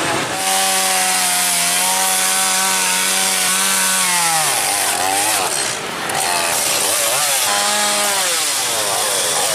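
Chainsaw cutting up a fallen tree. It is held at full throttle for about four seconds, then drops and revs up and down in quick swells, with another short full-throttle pull near the end.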